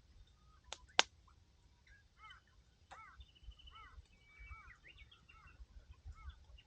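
Two sharp pops from a wood campfire about a second in, the second the louder, then small birds calling with many short, quick chirps through the rest.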